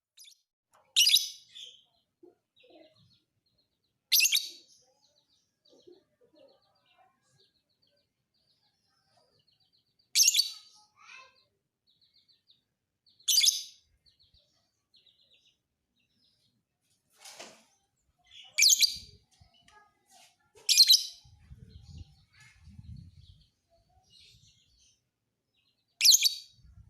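Lovebird calling in short, shrill, harsh bursts of chirping, seven loud bouts a few seconds apart, with faint twittering in between.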